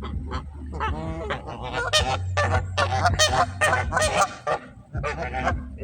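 A flock of waterfowl giving a rapid run of short, overlapping honking calls, thickest in the middle, over a steady low rumble.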